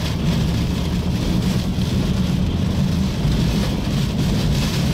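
Steady low rumble of a car running as it inches forward, heard from inside the car, with an even haze of wind noise over it.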